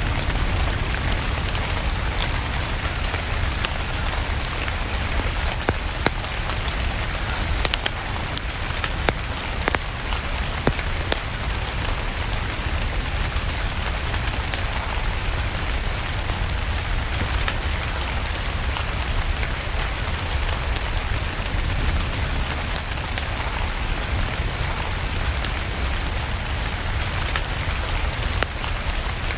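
Steady rain with a deep low rumble, mixed with the sharp, irregular crackles of a wood fire burning in a fireplace.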